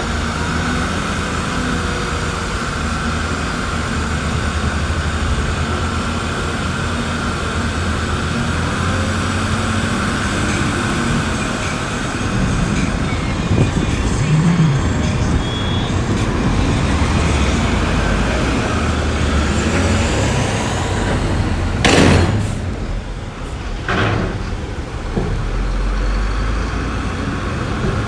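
Heavy diesel earthmoving machinery running steadily. Near the end come two sharp knocks about two seconds apart.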